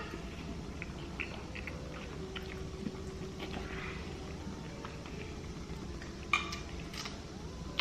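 Close-miked chewing with small clicks of cutlery against a plate, and one sharper clink about six and a half seconds in.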